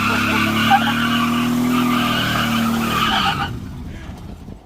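Pickup truck's tires spinning and squealing on pavement in a burnout, with the engine held at high revs; it stops about three and a half seconds in and fades out.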